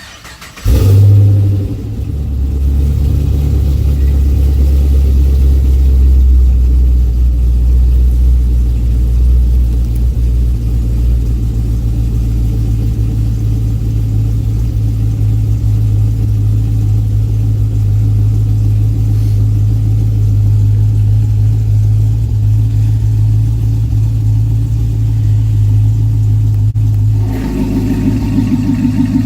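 Modified Pontiac G8 GT 6.0-litre V8 with long-tube headers, Borla cat-back and electric exhaust cutouts, firing up with a loud flare about a second in and then settling into a steady, deep idle. Near the end the exhaust note changes to a rougher, busier sound.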